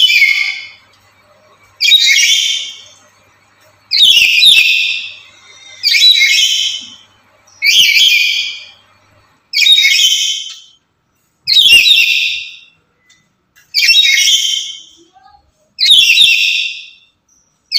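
Black-capped lory calling loudly over and over, one call about every two seconds, each lasting about a second.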